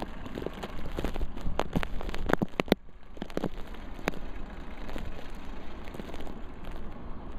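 Blizzard wind buffeting the camera microphone as a steady rushing noise, with a run of sharp crackling clicks about one and a half to three seconds in and one more a little later.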